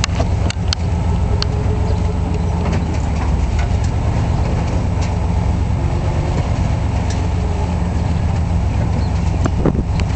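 Steady low rumble of a car's engine and tyres heard from inside the moving car, with a few short clicks and knocks scattered through it.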